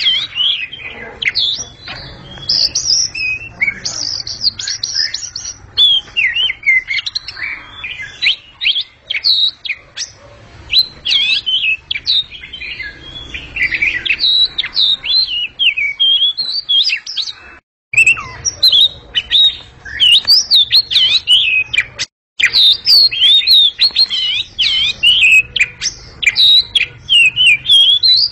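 Oriental magpie-robin (kacer) singing a loud, ringing song: a continuous stream of fast, varied high phrases, broken by two short gaps about two thirds of the way through.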